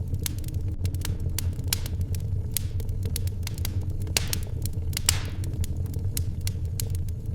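Wood fire burning in a fireplace, crackling with irregular sharp pops over a steady low rumble. There are two brief hisses about four and five seconds in.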